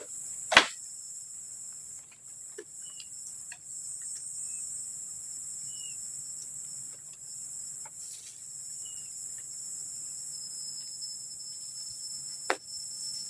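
Steady high-pitched chorus of forest insects, with a sharp knock about half a second in and another near the end, and a few faint short chirps in between.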